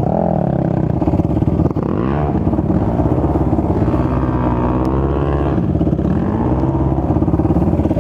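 450cc four-stroke off-road engine running, its revs rising and falling several times, over a steadier engine note underneath.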